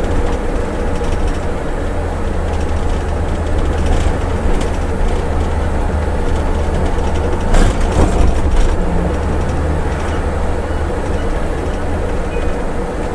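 Scania coach running downhill on a mountain road: a steady low engine and road rumble with a faint constant tone, and a few knocks and rattles about halfway through.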